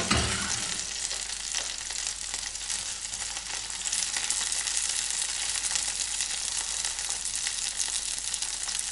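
Frozen pelmeni sizzling and crackling hard in hot oil in a frying pan as they are turned over with wooden spatulas; the spattering comes from water still cooking out of the thawing dumplings. A low thump right at the start.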